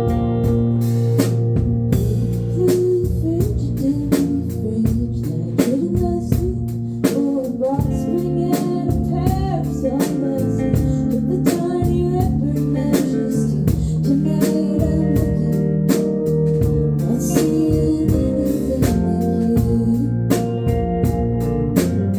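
A live band playing, with a drum kit keeping a steady beat under the instruments. A singing voice carries the melody, most clearly through the middle of the stretch.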